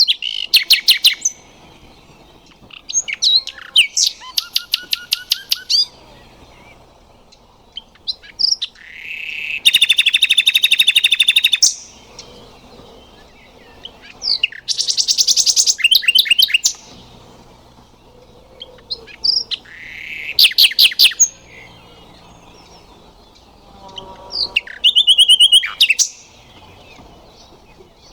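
Nightingale singing: phrases of one to three seconds each, separated by short pauses, made of fast repeated notes and trills. One long, fast trill runs about ten seconds in.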